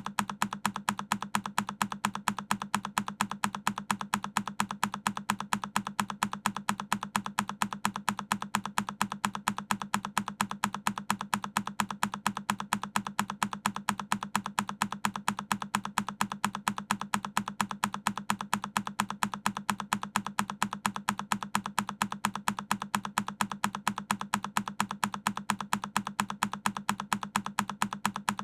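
A single key on a Keychron K10 mechanical keyboard being pressed, the same key-press click repeated over and over at an even, rapid pace as a loop.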